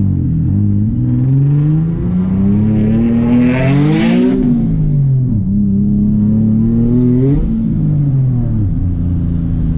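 Turbocharged Nissan 370Z's 3.7-litre V6 revving up under acceleration twice, its note climbing for a few seconds and dropping back each time. There is a burst of hiss at the top of the first climb.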